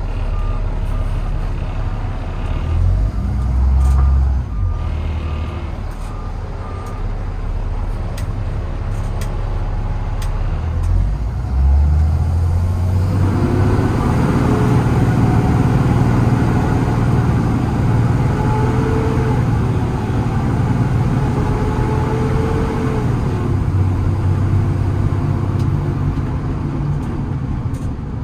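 Kenworth T370 service truck with its Paccar PX-6 6.7 diesel running, a reverse alarm beeping over it for the first several seconds. About halfway through the sound jumps to a louder, steadier run with a whine that shifts in pitch.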